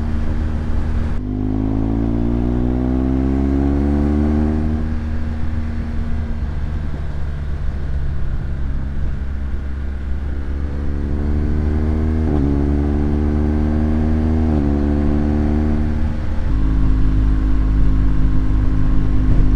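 Boxer twin engine of a BMW R1200GS Adventure motorcycle accelerating, its note rising for a few seconds after about a second in, then running steadily. Two brief breaks in the note come later, and near the end it settles into a lower, steady note with a heavier low rumble.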